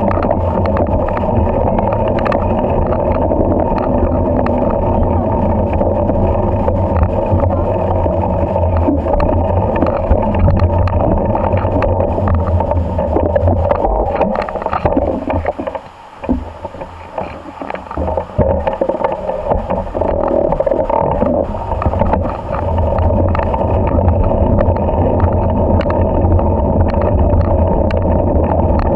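Loud, steady, distorted rumble of a moving bike ride, which briefly drops away about 16 seconds in.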